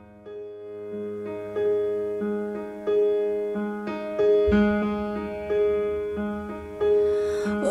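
Piano playing slow, evenly spaced chords, each struck and left to ring and fade, as an instrumental passage in a song; a singing voice comes in right at the end.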